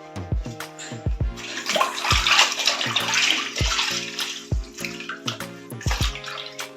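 Water running, from about a second in for roughly three seconds and then fading, likely used in washing the fridge. Background music with a steady beat plays throughout.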